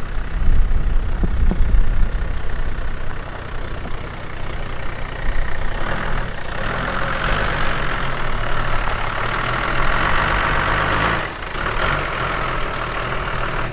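Four-wheel drive's engine running at low speed while it tows a caravan slowly over a rough dirt track. A hissing noise rises over it about six seconds in and drops away about eleven seconds in.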